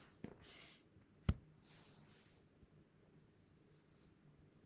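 Faint desk handling noise: one sharp click about a second in, with soft rustles before and after it and a few tiny ticks.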